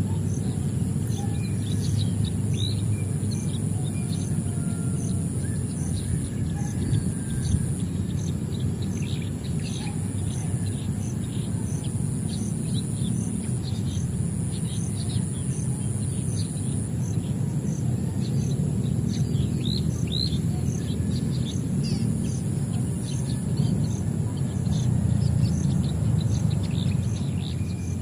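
Small birds chirping, many short, quick calls scattered throughout, over a steady low rumble and a steady high-pitched hum with a faint regular pulse.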